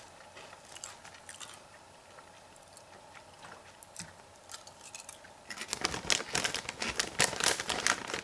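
Crisp potato chips being bitten and chewed with a crackly crunch. It is faint and sparse at first, then from about two-thirds of the way through it turns to loud, dense crunching.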